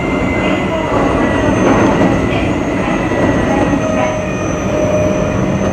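Keio 8000 series electric train running, heard from inside the carriage: a steady rumble of wheels on rail with thin whining tones from the drive gear, one of them falling slightly in pitch, and a lower whine joining past the middle.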